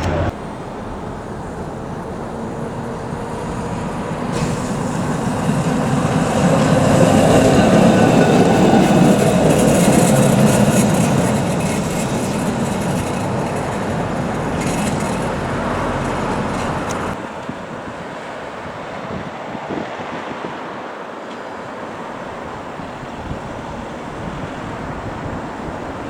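Heritage tram running along the track, its rolling noise growing louder to a peak about a third of the way through and then fading as it goes by.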